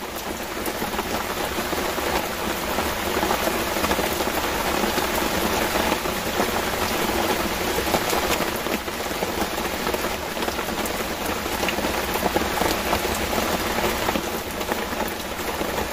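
Heavy tropical rain pouring steadily onto a river's surface: a dense, even hiss with no let-up.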